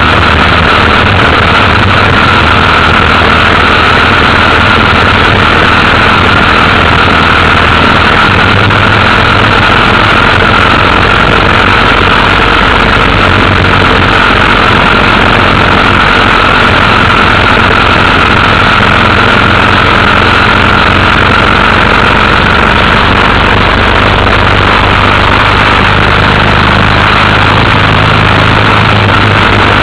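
Motorcycle engine running steadily while riding, under a loud, even rush of noise that holds throughout without a break.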